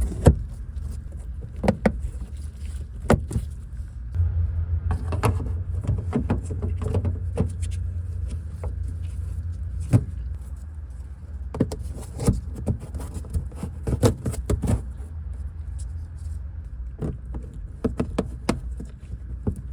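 Scattered plastic clicks and knocks as the rear cover of the headlight housing is fitted back into place, over a steady low hum.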